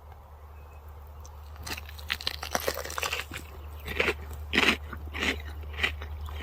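Crispy fried chicken burger being bitten into and chewed, its crunchy coating crackling. The crunching starts a couple of seconds in and builds to four louder crunches about half a second apart near the end.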